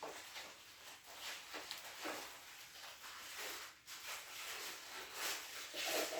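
Slime being squished and stretched by hand: irregular short wet crackles and squelches.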